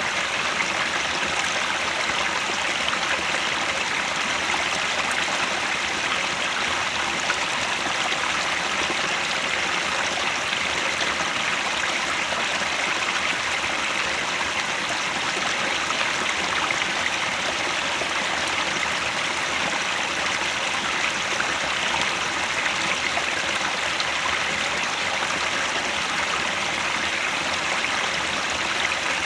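Mountain headwater stream flowing over rocks, a steady, even rush of water.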